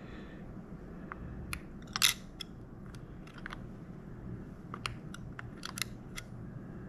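Sharp, scattered clicks and taps of small plastic and metal parts being handled inside an opened Logitech Extreme 3D Pro joystick, the loudest about two seconds in and a quick cluster later on.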